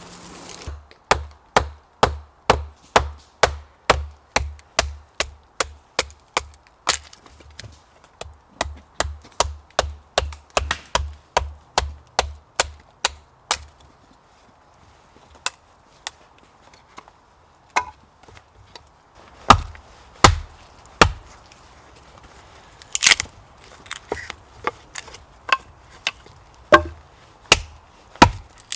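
Wood being chopped: a run of quick, even strikes, about two or three a second, for over ten seconds, then a pause and slower, heavier single blows every second or two.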